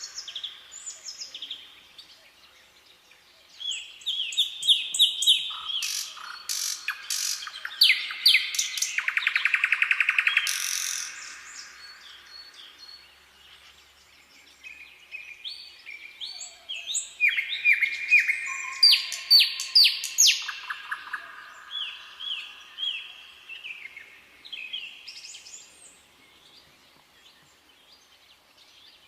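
Songbirds singing in two bouts of chirps and repeated whistled notes, including a rapid trill about nine seconds in, with quieter stretches between the bouts and near the end.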